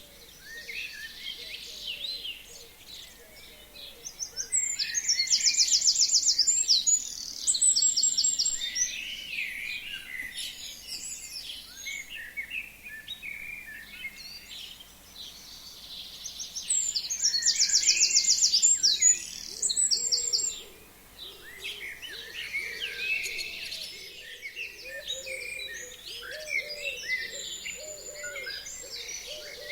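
Chorus of forest songbirds in spring. One bird close by gives a loud song of rapid repeated notes twice, each lasting about three seconds, about twelve seconds apart, over many fainter chirps and calls.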